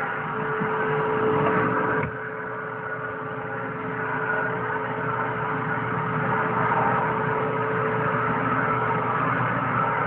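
Hoover vacuum cleaner running with a steady whine. About two seconds in its sound drops suddenly and grows quieter, then builds back up over the next few seconds.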